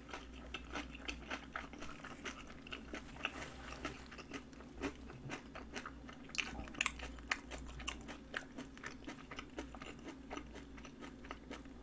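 A person chewing a mouthful of cabbage kimchi and rice: irregular soft crunches and wet clicks of chewing.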